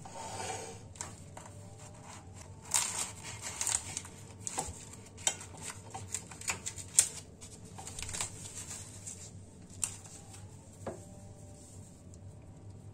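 Light clicks and clinks of dishes and cutlery, a quick irregular run of small taps lasting several seconds, with a single ringing tap near the end.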